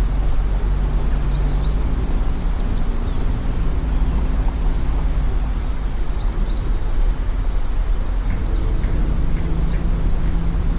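A steady low rumble, with a bird singing short high chirping phrases twice over it.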